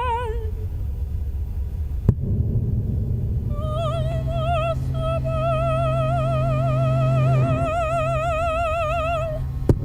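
A woman's voice singing one long high note with wide, even vibrato in an operatic style, over a steady low electronic drone. Sharp clicks come about two seconds in and again near the end.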